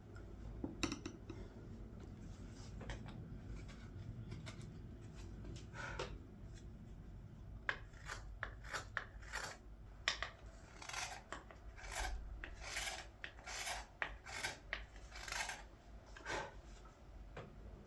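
Carving knife slicing green wood in a run of short shaving cuts, sparse at first and then coming about twice a second in the second half: the last finishing cuts on a hand-carved wooden ladle.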